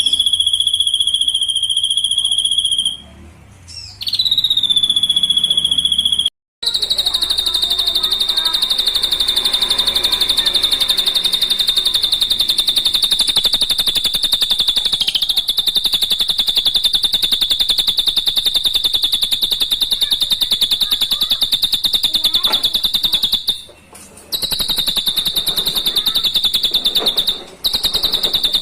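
Drongo (srigunting) training recording: a high, fast-pulsing trill held at one pitch, with a few short breaks.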